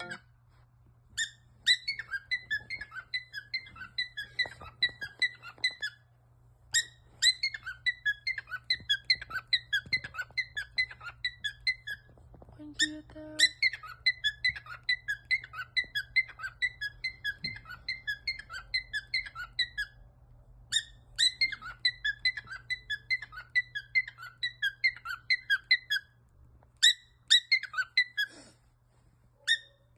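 A pet bird imitating an alarm clock's beeping: runs of rapid, high, squeaky chirps, several a second, in bursts of a few seconds with short pauses between them.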